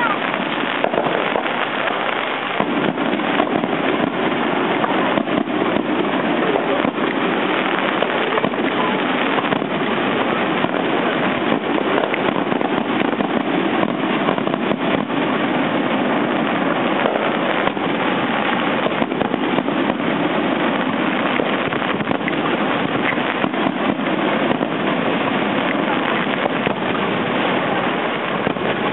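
Fireworks bursting and crackling again and again throughout, over the steady chatter of a large crowd of spectators.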